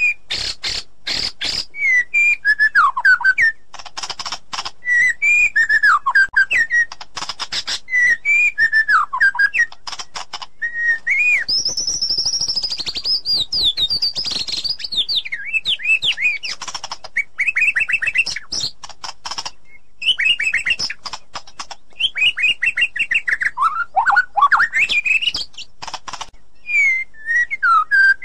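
White-rumped shama singing: a long run of loud, varied whistled phrases with rapid trills and fast repeated notes, climbing to a higher run of notes about halfway through.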